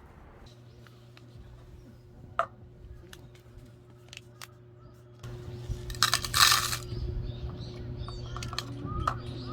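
Scattered small clinks and taps, one sharper about two seconds in, over a steady low hum. A short loud rustling burst comes about six seconds in, followed by faint chirps.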